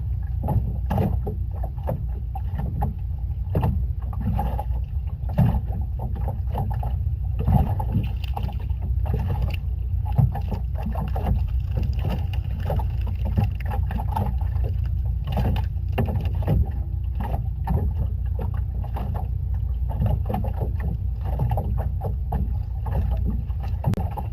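Small boat rocking at sea: water splashing and slapping irregularly against the hull over a steady low rumble.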